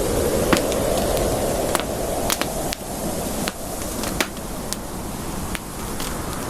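Campfire crackling: irregular sharp pops and snaps of burning wood over a steady hiss of the flames, the hiss easing slightly about halfway through.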